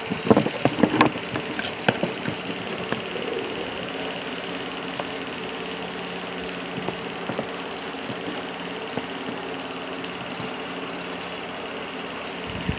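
A cluster of sharp metallic clicks and knocks in the first two seconds, over a steady mechanical hum that runs on unchanged.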